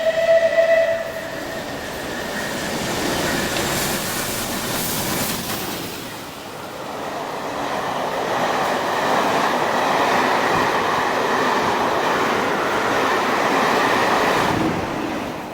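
A train running along the station platform: a steady rumble of wheels on rails that swells again about halfway through, with a short tone like a horn right at the start and a thin high squeal over the later part.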